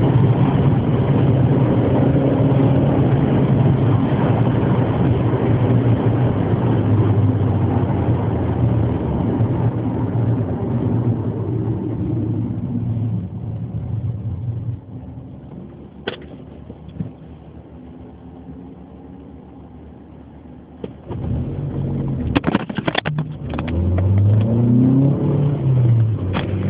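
Formula-type race car engine running with a steady note that fades away over the first dozen seconds. After a quieter stretch with a few sharp clicks, the engine comes back and revs up and down near the end.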